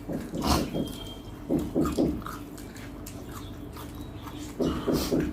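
Chewing and mouth sounds of someone eating a spicy curry-and-rice meal, in a few short, uneven bursts.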